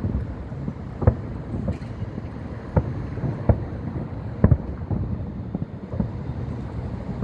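Fireworks shells bursting in an irregular series of sharp bangs and booms, several of them loud, over a steady low rumble of wind on the microphone.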